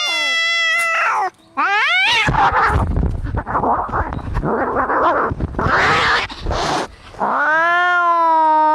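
Cats fighting: a long, held yowl ends about a second in, a couple of short rising cries follow, then several seconds of harsh, noisy spitting and hissing, and another long, steady caterwaul begins near the end.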